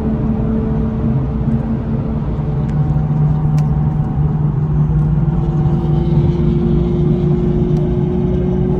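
Car engine running steadily with a deep, even drone; its pitch drops a little about five seconds in.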